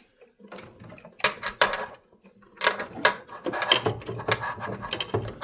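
Metal clinks, taps and rattles, many in irregular succession, from screws and sheet-metal parts being handled and fitted as the gas valve assembly of a tankless water heater is put back on.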